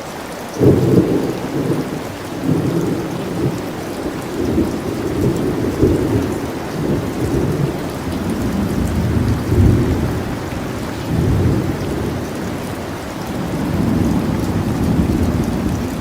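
Steady rain with a thunderstorm: thunder breaks suddenly about half a second in and rolls on in deep rumbles that swell and ease several times over the rain.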